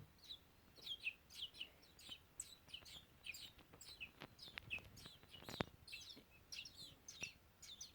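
Baby robins chirping: a quick, faint series of short, high, downward-sliding peeps, with a few light clicks about halfway through.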